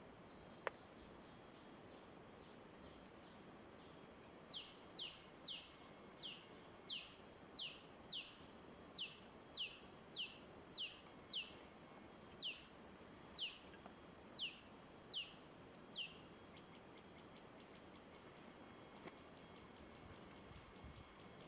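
A bird calling in a long series of sharp whistled notes, each sliding downward, about two a second. The notes grow louder about four seconds in and stop about sixteen seconds in. A single click comes just under a second in.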